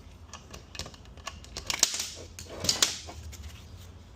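Small metal transmission parts clicking and tapping as they are handled on a workbench, with two louder clinks about two and three seconds in.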